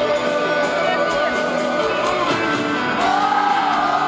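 Live sertanejo concert music with singing voices over the band, and shouts from the crowd.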